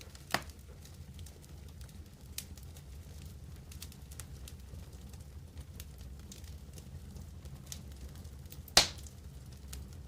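Wood campfire burning with a low steady rumble and scattered small crackles, and two sharp pops from the burning wood, one right at the start and a louder one near the end.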